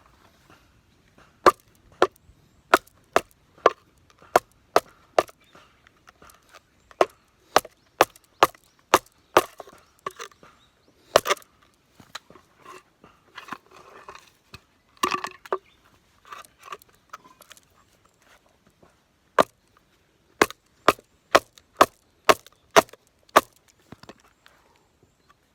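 Firewood being split by batoning, a knife driven through the wood with a baton. Sharp wooden knocks come in quick runs of about two a second, with softer cracking and knocking in a break midway.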